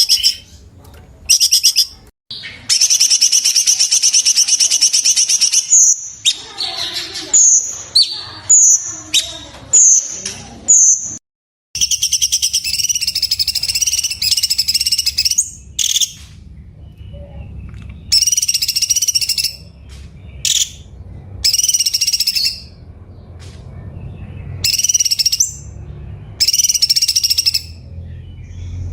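Cucak cungkok song: loud, rapid trilled bursts delivered again and again with short pauses, and a run of short quick separate notes partway through. These are the dense 'tembakan' phrases used to train other songbirds.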